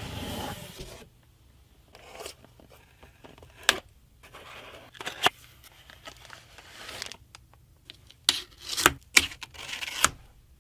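Packaging being handled and torn open: rustling, scraping and tearing with several sharp clicks and taps, the loudest clustered near the end. A steady rushing noise stops about a second in.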